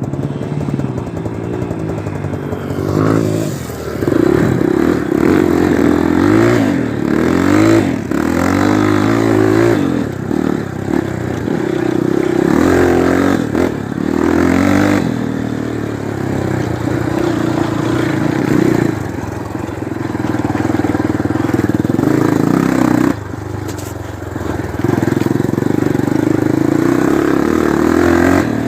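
Honda single-cylinder four-stroke trail motorcycle engine under way, its pitch repeatedly rising and falling as the throttle opens and closes. The engine eases off briefly a little past two-thirds through, then pulls again.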